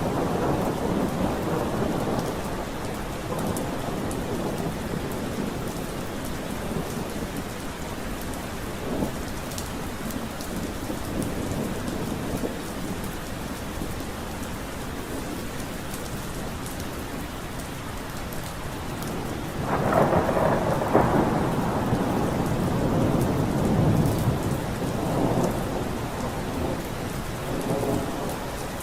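Steady rain falling, with rolling thunder rumbling at the start and again in a longer swell about two-thirds of the way through.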